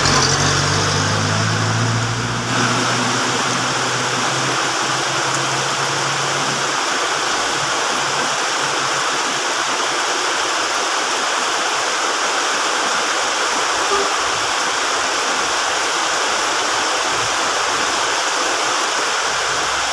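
Heavy rain falling, a steady dense hiss. A low hum runs underneath at first and fades out about a third of the way in.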